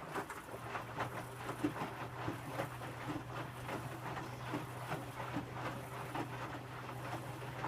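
Electrolux W455H commercial washing machine washing at 60 °C with its heater off: a steady motor hum comes in about half a second in, under water sloshing and irregular knocks from the turning drum.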